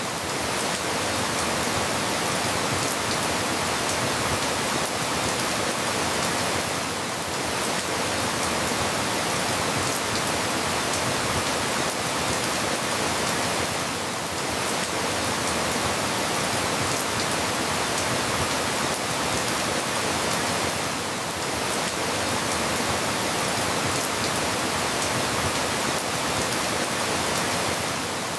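Steady, dense rainfall, an even hiss of many drops with no thunder. It dips slightly about every seven seconds, as a looped rain recording does.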